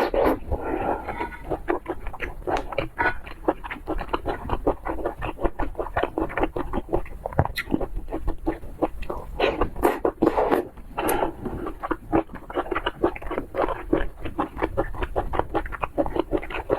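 Close-up eating sounds of a person chewing seafood: a rapid, irregular run of small mouth clicks and smacks, several a second.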